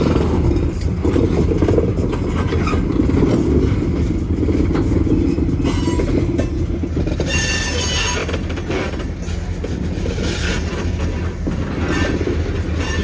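Diesel freight locomotive running with railcars rolling slowly during switching: a steady low engine rumble. From about halfway through come higher wheel squeals and clanks.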